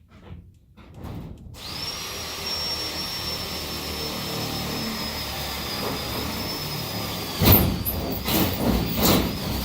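Power drill spinning up about a second and a half in and running at a steady high whine. Near the end the bit bites in, with loud grinding and scraping as it cuts the hole.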